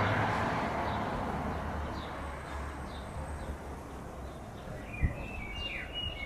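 Small birds chirping outdoors in short, high, downward notes, sparse at first and then several in quick succession near the end. A passing car's sound fades away over the first couple of seconds, and a single soft thump comes about five seconds in.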